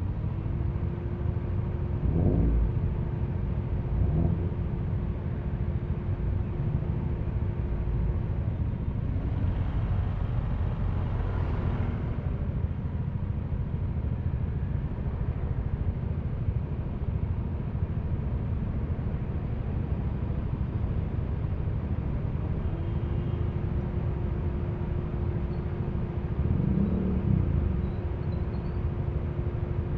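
Yamaha Aerox V3 scooter's 155 cc single-cylinder engine and road noise as heard by the rider, a steady low rumble. It has brief louder moments about two and four seconds in and near the end, and a swell of higher noise about ten seconds in.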